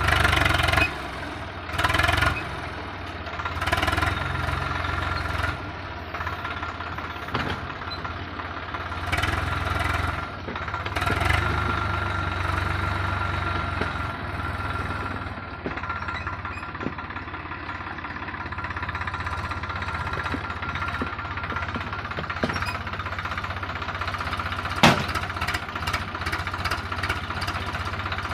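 Tractor engine running with a backhoe loader fitted, rising in loud surges several times in the first dozen seconds, then running steadily. A few sharp knocks come near the end.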